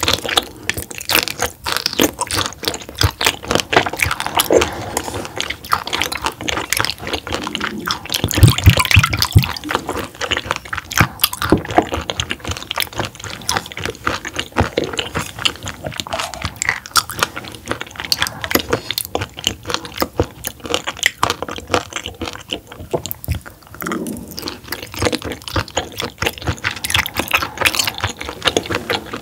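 Close-miked chewing of raw roughscale sole: wet, crunchy mouth sounds made of many small clicks, with a louder burst about nine seconds in.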